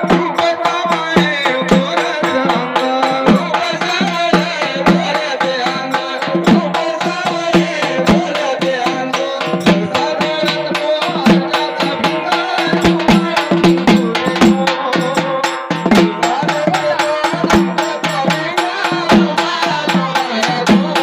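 Marathi folk cradle song (palna): a man singing over steady held tones and a fast, dense hand-drum beat with rattling percussion.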